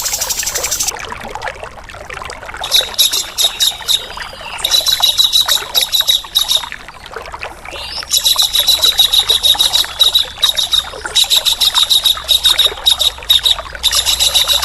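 Harsh, rapid rasping bird calls repeated in bursts of one to three seconds with short breaks, over a steady trickle of running water.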